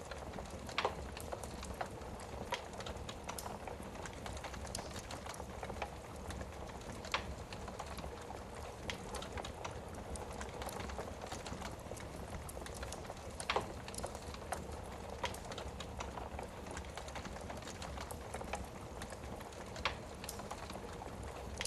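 Wood fire burning in a fireplace: a steady soft hiss with irregular crackles and a few louder pops of burning logs.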